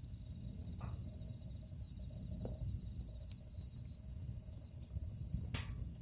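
Wood fire burning with a low steady rumble and scattered crackles and pops from the burning logs, the loudest pop near the end. A faint, thin, high whistle runs underneath.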